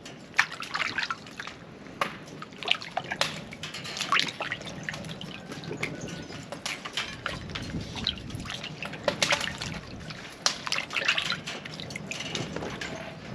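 Water splashing and dripping in many irregular small splashes.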